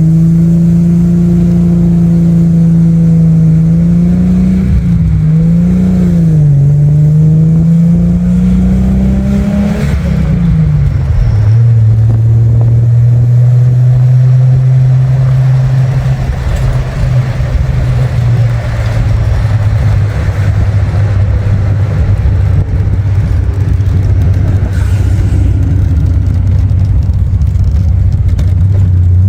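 1974 Triumph TR6's engine pulling the car along, its pitch climbing slowly with a brief waver about five seconds in. About ten seconds in the pitch drops sharply as it shifts up, and it then runs steady at lower revs.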